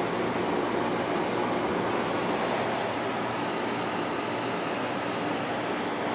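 An 8000 BTU air conditioner with a Sanyo rotary compressor and an LG fan motor running steadily in cooling mode on low fan: a smooth hum under an even rush of air, the sound of a unit in good running order.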